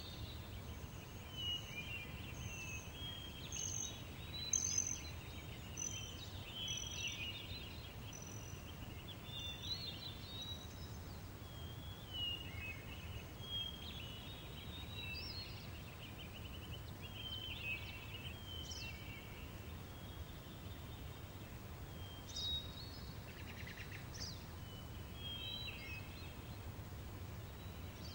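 Outdoor ambience of several small birds chirping and trilling, with short calls scattered throughout and a run of repeated high notes in the first few seconds, over a steady low rumble.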